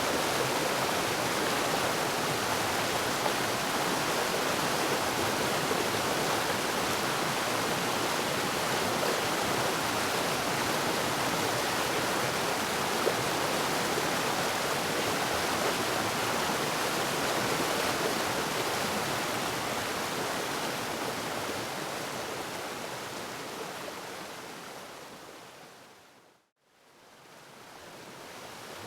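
Waterfall rushing in a steady, even roar of falling water. Near the end it fades out to a moment of silence and then fades back in.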